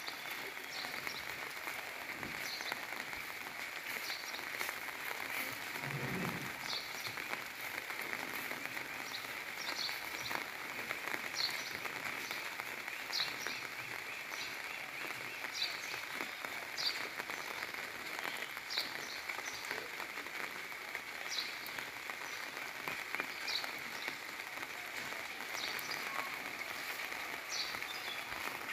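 Steady hiss of light rain falling outdoors, with a short high chirp repeating every second or two.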